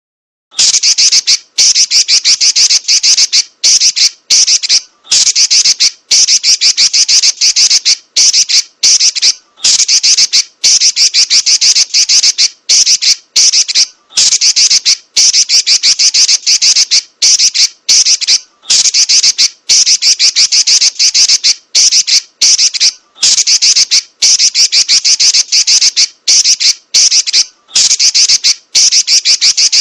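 Female Pekin robin (red-billed leiothrix) giving rapid, high-pitched chattering trills, the 'nyerecet' rolls used as masteran training audio, in runs of a second or two broken by brief pauses; it starts about half a second in.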